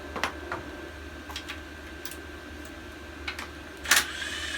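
Scattered light metallic clicks of a wrench and socket working on the edger engine's mounting nuts, with a sharper clank about four seconds in followed by a brief rising ring.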